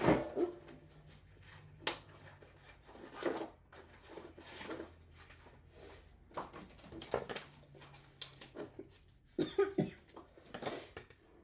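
Scattered handling noises as a new child car seat and its tether straps are handled: irregular clicks, knocks and rustles of plastic and webbing, with a faint low hum underneath.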